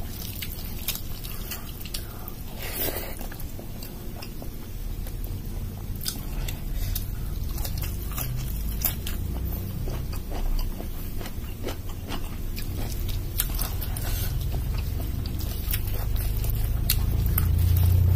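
Close-miked eating sounds: chewing of rice and dal with many short wet mouth clicks and squishes, and fingers mixing rice on a steel plate. A steady low hum runs underneath.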